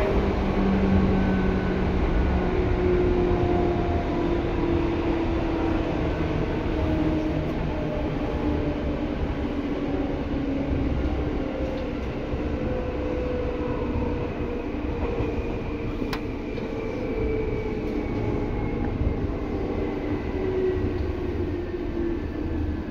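Seibu 2000 series electric train heard from on board while it slows: rumbling wheels and running gear under several whining tones from the drive that fall steadily in pitch as the speed drops. There is one sharp click about 16 seconds in.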